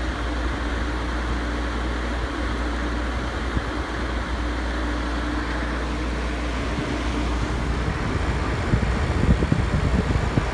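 1965 GE Thinette 6000 BTU window air conditioner running on low cool, its fan and compressor making a steady whir with a low hum. From about eight seconds in, wind buffets the microphone.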